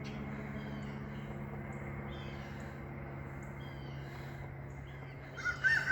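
Steady drone of an aircraft passing overhead, with small birds chirping now and then; near the end a rooster starts to crow.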